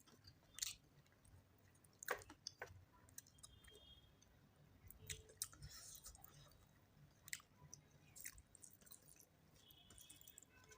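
Faint, close-up chewing and mouth sounds of a person eating chicken curry with rice: irregular soft wet smacks and clicks.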